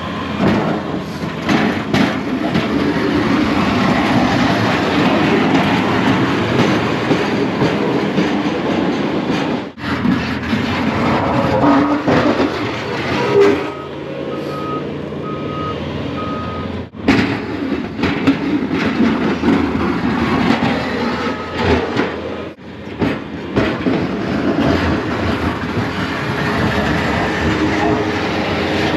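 Plow truck at work: the engine runs under load while the plow blade pushes and scrapes along the snowy pavement in a steady heavy rumble. A short run of beeps comes about halfway through, and the sound cuts out abruptly a few times.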